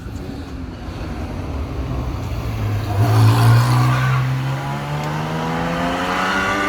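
Rally car engine accelerating hard, its note rising steadily in pitch and loudest about three seconds in.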